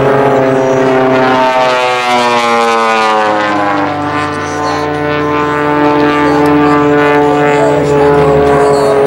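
Airplane engine droning as it flies past, its pitch falling about two to three seconds in.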